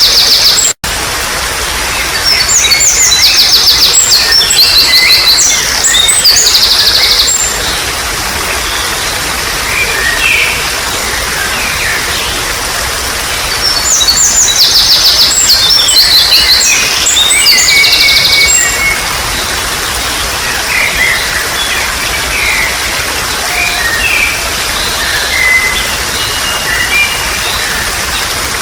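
Steady trickling water with a songbird singing over it: two long bouts of fast, repeated high trilled notes, with scattered quieter chirps between them. The sound drops out for a split second about a second in.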